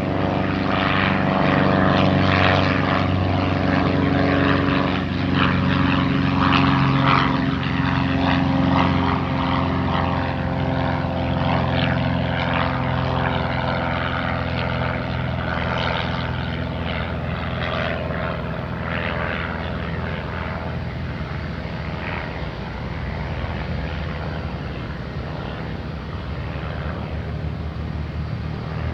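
Aircraft engines running steadily with a deep droning hum, loudest in the first few seconds and slowly fading as the plane moves away.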